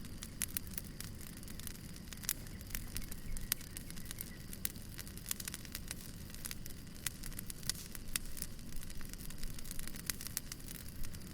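Wood fire crackling: irregular sharp snaps and pops, several a second, over a steady low rumble of the burning.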